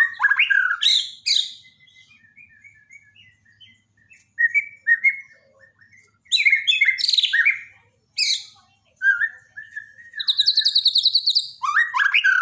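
White-rumped shama (Borneo murai batu) singing: loud phrases of fast repeated trilled notes, broken by softer short whistled notes, with brief pauses between phrases.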